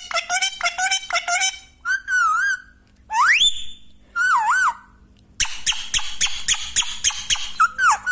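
Pet parrot whistling and calling: a fast run of repeated chirps, then a few warbling whistles and one sharply rising whistle with short pauses between them, then another fast run of chirps near the end.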